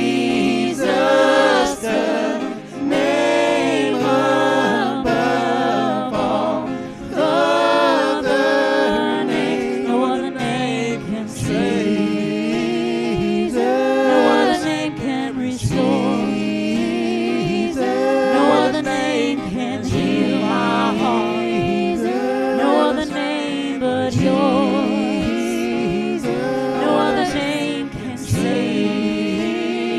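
Gospel vocal group singing in multi-part harmony, with vibrato on the sustained notes.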